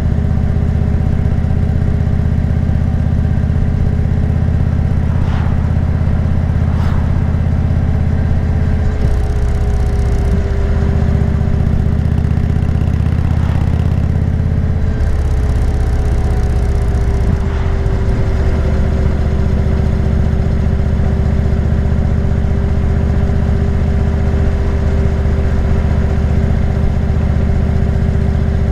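Motorcycle engine running under way while riding, loud and steady, its note changing several times, around a third of the way in and again about halfway through.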